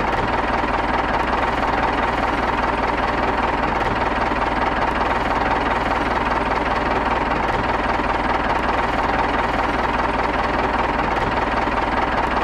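Tractor engine sound running steadily at an even pace, without revving or change.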